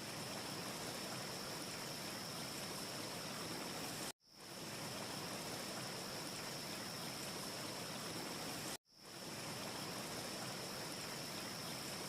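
Looped wind ambience: a steady rushing hiss with a faint high whistle running through it. It cuts out abruptly and fades back in twice, about every four and a half seconds, where the loop restarts.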